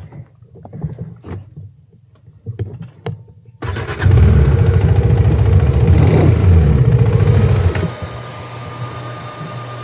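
Off-road motorcycle engine comes in suddenly a little over a third of the way in, runs loud and hard for about four seconds, then drops back to a steady idle. Before that, only faint clicks and knocks.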